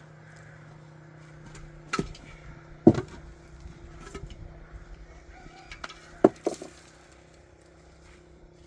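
Four sharp knocks over a steady low hum: two about a second apart near the start, then two close together past the middle.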